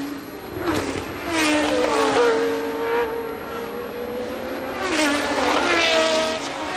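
1982 Formula One cars passing at racing speed, their engines at high revs, several in succession, the pitch dropping as each goes by.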